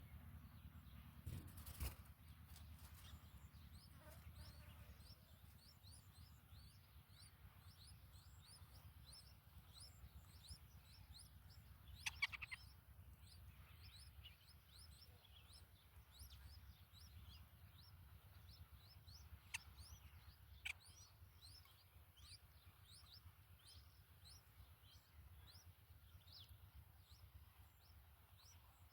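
Faint, rapid high chirps from small birds, short downward-sliding notes repeating about three times a second, over a low rumble of background noise, with a few sharp clicks.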